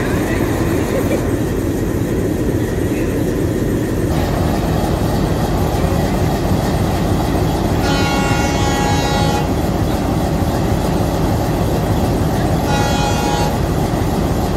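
Train running with a steady rumble, and a locomotive horn sounding twice: a longer blast about 8 seconds in and a shorter one near the end.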